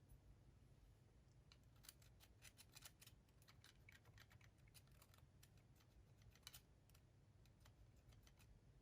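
Faint, irregular light clicks and taps of small plastic and metal parts being handled while a cassette walkman is cleaned with contact cleaner, with a busier run of clicks about two to three seconds in and another near six and a half seconds.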